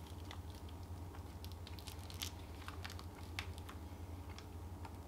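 A bite taken from a smoked meat snack stick, then quiet chewing heard as scattered faint clicks, over a steady low hum.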